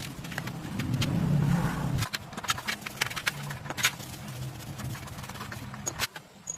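A motor running with a low steady hum, louder for the first two seconds, with scattered sharp clicks and knocks over it; the hum stops near the end.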